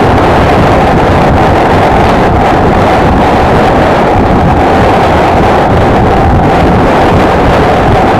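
Heavy wind rushing over the microphone of a moving motorcycle, with the Honda XLR125R's single-cylinder four-stroke engine running at a steady cruise underneath; loud and unchanging throughout.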